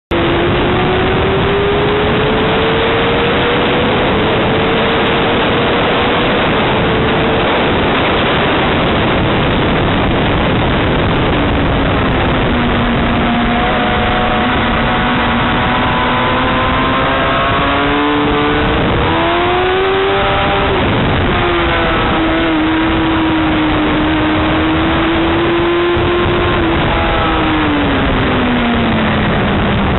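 Racing motorcycle engines on a circuit, several engine notes rising and falling in pitch as they accelerate, shift and pass, over a constant loud rushing noise.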